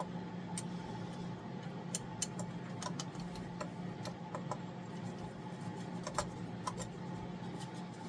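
Irregular light clicks and ticks of small metal parts and hand tools being handled, over a steady low hum.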